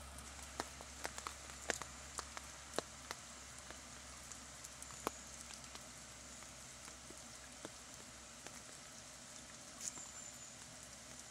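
Water: a steady hiss of flowing or falling water with scattered, irregular drips and splashes, more of them in the first few seconds.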